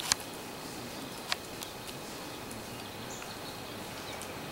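Steady outdoor background hiss, broken by a few sharp clicks in the first second and a half and a brief high chirp about three seconds in.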